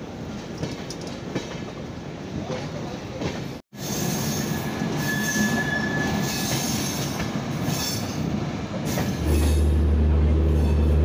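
Passenger train coaches rolling into a station over curved track, wheels rumbling and clacking on the rails, with a high wheel squeal about five seconds in. A low steady hum comes in near the end as the train runs alongside the platform.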